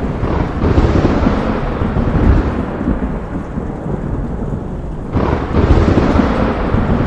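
Thunder rumbling low over steady rain in a thunderstorm. The rumble eases off, then a fresh loud thunderclap breaks in about five seconds in.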